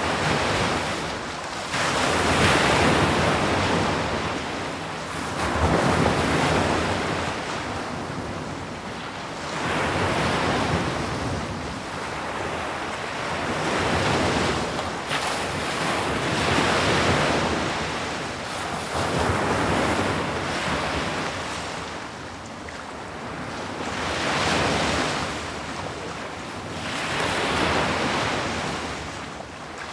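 Ocean waves breaking on a shore. The surf swells and falls back about every three to four seconds.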